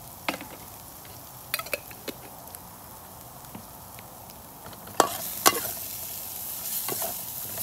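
Onion and spice paste frying in a stainless-steel wok, a steady sizzle, with a metal wok spatula clinking and scraping against the pan as it is stirred. The sizzle grows louder about five seconds in, with two sharp clinks of the spatula.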